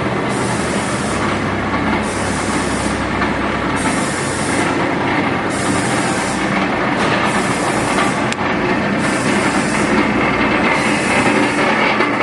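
J H Day stainless steel vertical nauta mixer running under its 1.5 hp drive: a steady mechanical whir with a hiss that swells and fades in an even rhythm about once a second.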